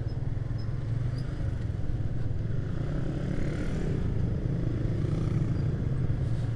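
Motorcycle engine running at low speed in slow, congested traffic, heard from on the bike as a steady low hum.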